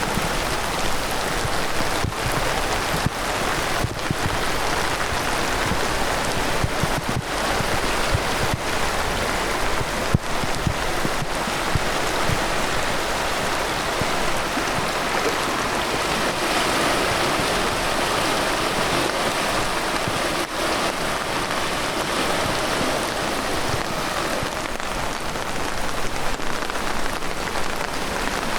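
Heavy rain pouring down steadily, a dense even hiss of drops hitting the ground and foliage.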